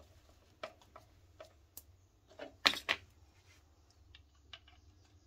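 Scattered light clicks and taps of small parts and tools being handled, a few spaced a second or so apart with two sharper ones close together near the middle, over a faint steady low hum.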